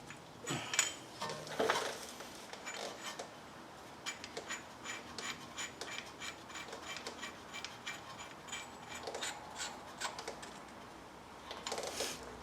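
Metal hand tools clicking and knocking against a rear brake caliper while its piston is turned back in. A few louder knocks come first, then a long run of quick, regular clicks, a few a second, and a couple more knocks near the end.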